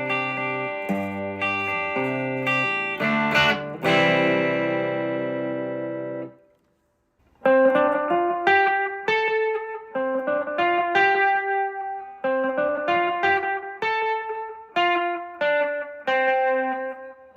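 Gretsch electric guitar played on its bridge pickup through an amplifier. It plays a chord riff that ends on a strummed chord, which rings for about two seconds and is cut off. After a second's pause comes a picked single-note line that repeats a short phrase.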